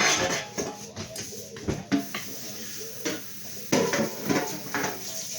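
Pots and pans clattering and knocking together as a baking pan is pulled out, in several uneven rounds of rattling.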